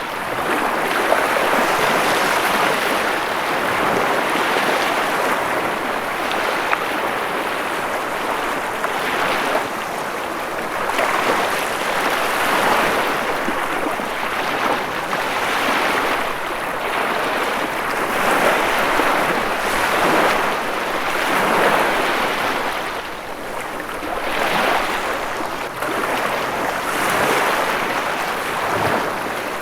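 Ocean waves washing onto a shore, a continuous rush of surf that swells and eases every couple of seconds.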